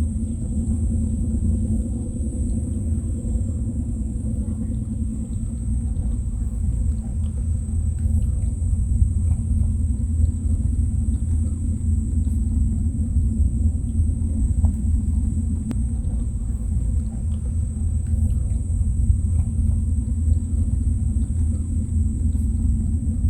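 Steady low outdoor rumble, typical of wind on the microphone, with a constant high-pitched hiss above it and a few faint scattered clicks.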